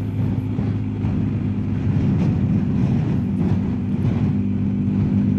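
BMW R1250GS Adventure's boxer-twin engine running steadily at cruising speed, a constant low hum with road and wind noise.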